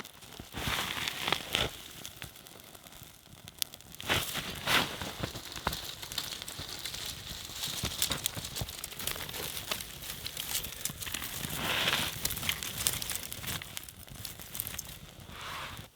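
Irregular crinkling and rustling with scattered clicks, as of material being handled, in several louder bouts; it cuts off suddenly at the end.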